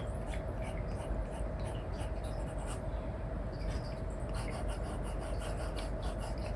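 Apple Pencil nib scratching and tapping on a paper-like screen film over an iPad, in many quick short strokes like pencil on paper. A steady background hiss and a faint hum run underneath.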